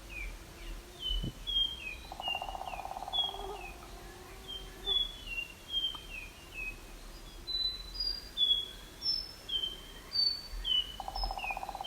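Songbirds calling: a continuous series of short, high, down-slurred chirps, about two or three a second, at several pitches. A lower buzzing trill comes in about two seconds in and again near the end.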